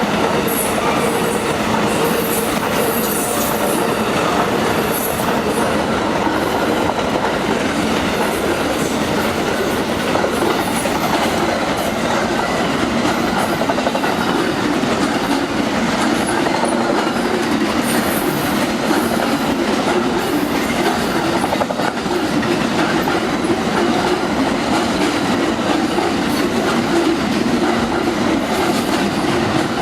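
A train rolling past: the steady roar of its wheels on the rails with a clickety-clack, and brief high wheel squeals now and then.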